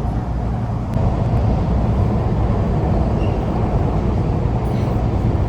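Subway train running through a tunnel, heard from inside the car as a loud, steady, deep rumble that grows louder about a second in.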